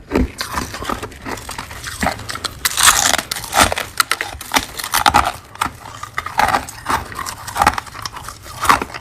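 Crunchy humidifier frost being bitten and chewed: a dense run of crisp crackles and snaps, with louder crunches about three seconds in and again near five seconds.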